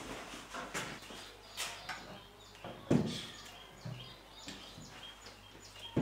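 Birds chirping in the background, with a few light clicks and one thump about three seconds in from a wooden cupboard's lock and door being handled.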